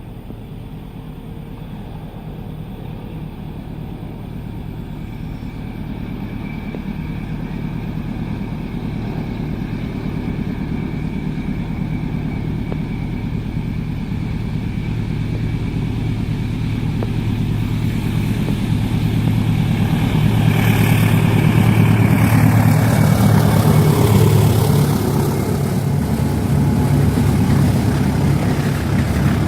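A diesel-hauled train approaching: the locomotive's engine drone grows steadily louder, then passes close about three-quarters of the way in with a pitch that drops as it goes by.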